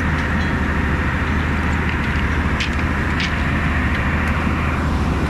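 Heavy engine running steadily with a deep, even hum, with a couple of faint clicks in the middle.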